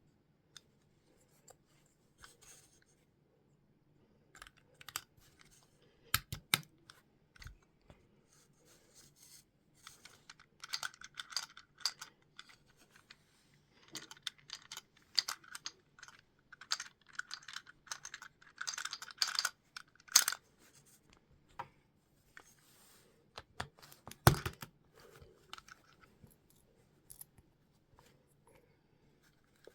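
Lego bricks being handled and fitted together: irregular plastic clicks, taps and rustling in clusters, with a couple of sharper knocks, over a faint steady low hum.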